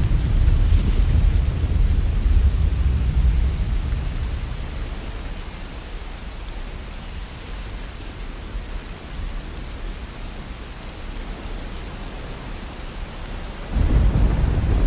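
Heavy rain pouring steadily, with a deep rolling rumble of thunder. The rumble fades away over the first five seconds and returns suddenly near the end.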